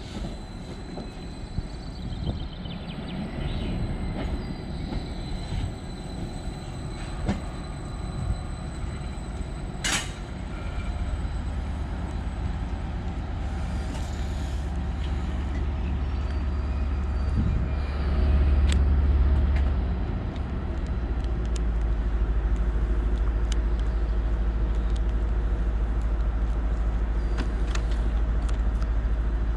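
Class 755 train at the station, its engines giving a low rumble that builds from about a third of the way in, swells briefly past the middle, then holds steady. Scattered clanks and clicks sound over it, with one sharp click about ten seconds in.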